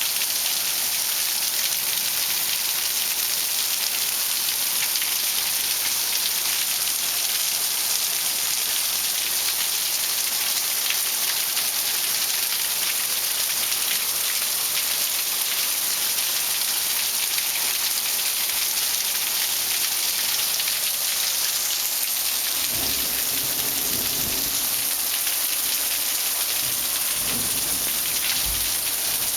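Steady heavy rain falling and splashing on hard surfaces, a dense even hiss. Twice near the end a low rumble rises under it.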